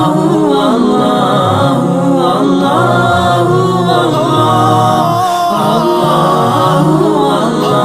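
A cappella nasheed: layered voices humming and singing a wordless melody over a held low vocal drone.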